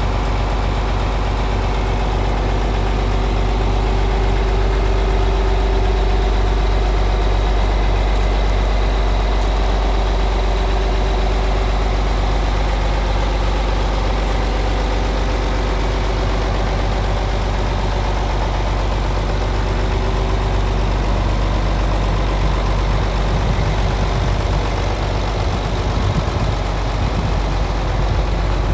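John Deere 7520 articulating tractor's 8.7 L six-cylinder diesel engine idling steadily.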